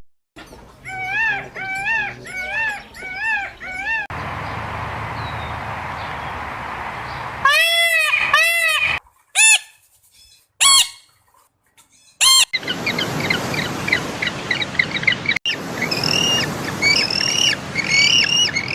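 Birds calling in a string of short cut-together clips: repeated rising-and-falling honking calls, a few loud single honks, then quick high-pitched chirping in the last third.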